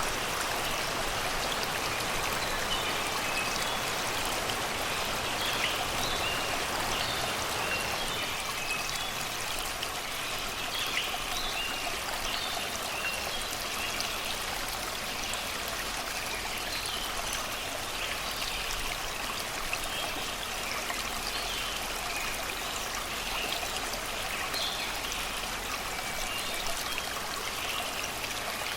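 Shallow river flowing steadily over rocks and stones, babbling, with short bird chirps scattered over it.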